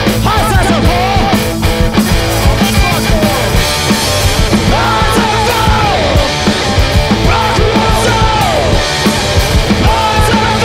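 Loud live punk-blues garage rock from a two-piece band: a dense wall of drums and distorted guitar, with a pitched lead line that slides up and falls away in repeated phrases.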